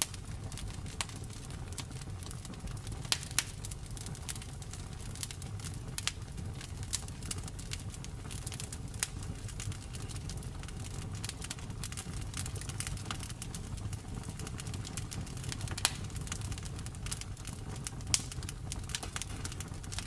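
Wood fire crackling in a fireplace: frequent sharp snaps and pops over a steady low rumble of the flames, with a few louder pops.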